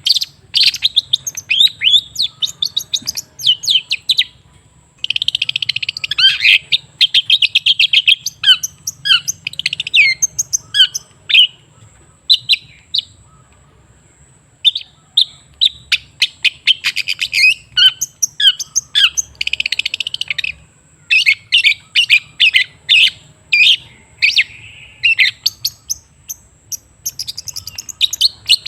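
Long-tailed shrike singing a fast, varied chattering song of sharp chirps, trills and harsh notes. The song breaks off briefly about four seconds in, and again for a few seconds near the middle.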